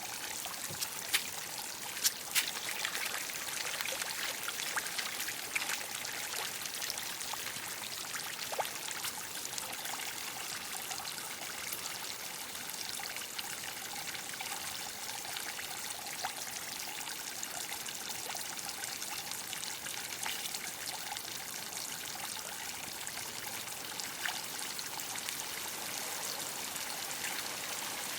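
Water running and pouring steadily, with a few sharp knocks in the first few seconds.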